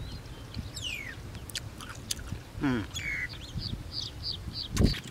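Close chewing of rice noodles and fresh vegetables, with birds calling nearby: one falling call about a second in, then a run of short chirps at about four a second in the second half. A loud low thump comes near the end.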